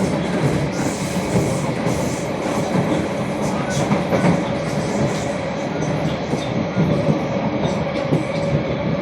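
Cabin noise inside a Kawasaki-Sifang C151B metro car running at speed between stations: steady rumble of wheels on the track, a steady tone over it and faint scattered clicks.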